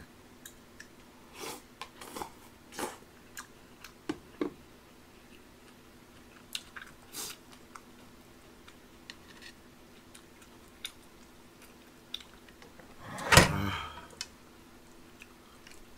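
Close-up chewing and mouth smacks of a man eating tteokbokki rice cakes and fish cakes, with scattered small clicks, over a faint steady hum. One much louder, sharp knock comes about 13 seconds in.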